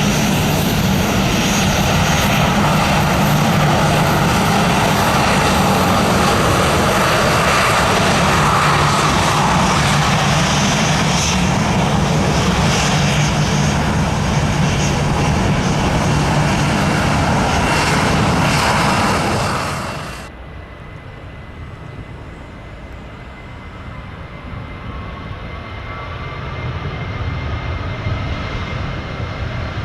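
Jet airliner engines passing at close range, loud and steady with a low drone, cutting off abruptly about twenty seconds in. A quieter aircraft sound then builds slowly toward the end.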